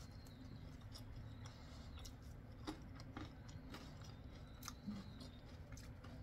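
Faint, irregular crunching clicks of someone chewing crispy fried chicken with mouth closed, over a low steady hum.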